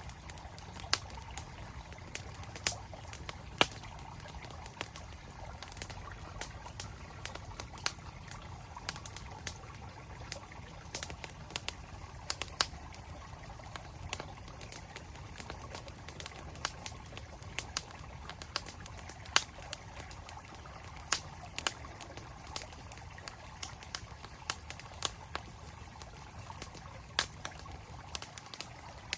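Wood fire crackling with frequent, irregular sharp pops and snaps, over the steady rush of a flowing mountain stream.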